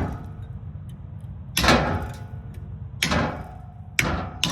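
Hammer blows on steel, knocking the dust ring off a driveshaft: four sharp metallic strikes, each with a brief ring, the last two close together near the end.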